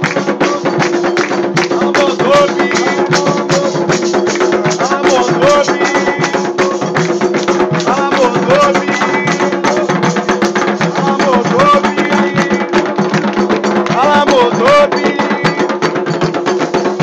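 Afro-Brazilian ritual music for Xangô: hand drums and other percussion playing a fast, dense rhythm, with voices singing over it.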